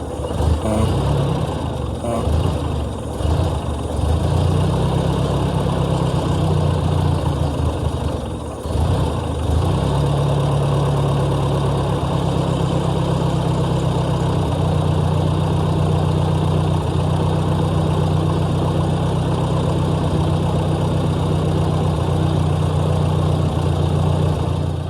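Ford 640 tractor's four-cylinder engine running. The engine speed shifts a few times in the first ten seconds, with a brief drop near the middle, then holds steady.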